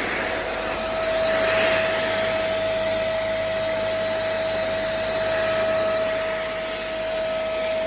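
Deerma corded vacuum cleaner running steadily at full speed: an even whine from the motor over the rush of sucked air, working stably with good suction.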